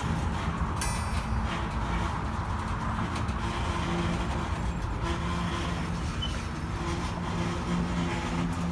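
A vehicle's engine running with a steady low rumble and a few held hum tones.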